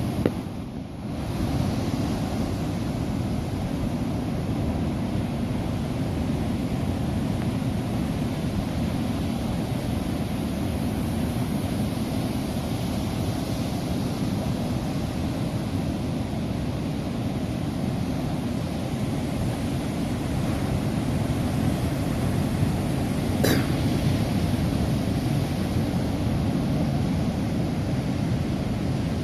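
Steady roar of strong typhoon wind and heavy surf, with the wind buffeting the microphone. A short lull about a second in, and a single faint click near the end.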